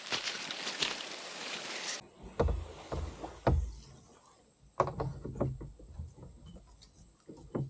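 Water splashing and sloshing in irregular strokes from someone wading through a shallow creek, over a steady high-pitched insect drone. For the first two seconds a denser rustling hiss covers it.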